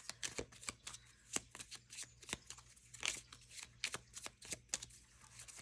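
Tarot cards being shuffled by hand: an uneven run of quick clicks and riffling card rustles.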